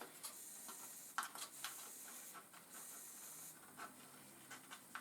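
Faint handling noises of plastic parts and a cable being fitted together: a few light clicks and rustles over a high, steady hiss that stops a little past the middle.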